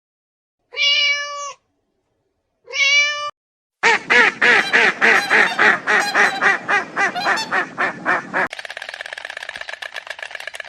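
Animal calls in three parts. First come two separate drawn-out calls, each held at one pitch. A fast run of loud calls follows at about four or five a second. After an abrupt change near the end, a denser, quieter rapid chatter takes over.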